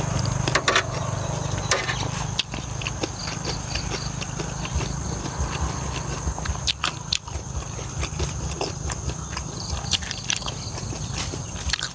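Close-up chewing of a mouthful of pork offal salad with raw herbs: irregular wet clicks and crunches all through.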